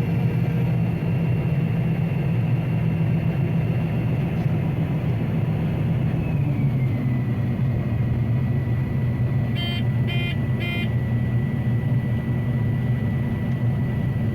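Combine harvester running steadily while cutting wheat, with a thin high whine that drops slightly in pitch about six seconds in. Three short beeps sound just before the ten-second mark.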